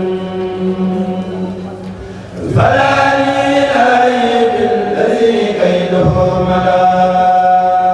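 A kourel, a Senegalese Mouride group chanting religious verse, sings a cappella in long held notes. A louder phrase comes in about two and a half seconds in, with the voices sliding between pitches.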